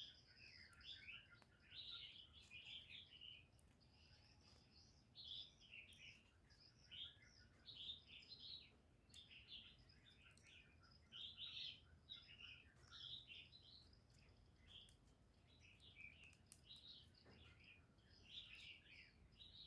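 Faint chirping and twittering of small birds: clusters of short, quick, high calls every second or so, with a thin steady high tone in the first part.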